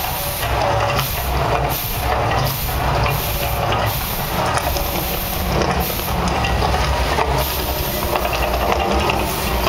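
The Mirage volcano attraction erupting: a loud, steady rushing hiss of its gas flames and water jets over a low rumble, surging irregularly.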